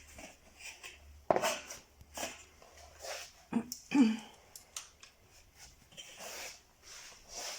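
Thin galvanised steel drywall profiles being handled and fastened to the frame: a few sharp metallic clicks and knocks, then a soft scraping hiss near the end.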